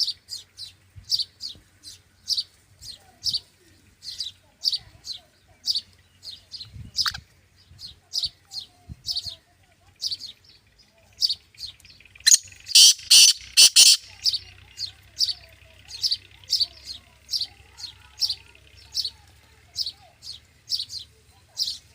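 Black francolin (kala teetar) calling: short high chirps repeated about twice a second, with a louder run of several quick notes about twelve seconds in.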